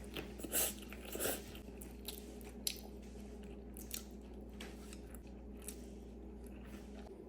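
Short crunching clicks: two louder ones about half a second and just over a second in, then scattered lighter clicks, over a steady low hum.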